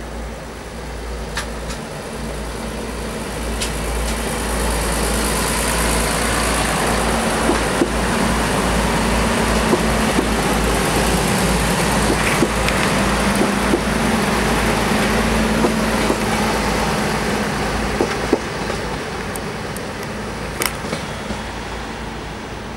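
DB class 643 'Talent' diesel multiple unit passing: a steady engine drone that swells over several seconds, holds, then fades, with scattered light clicks in the middle.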